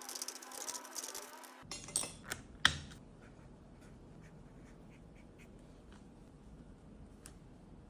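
Hard objects being handled, with three sharp clinks close together about two seconds in, the last one the loudest, then faint scattered ticks.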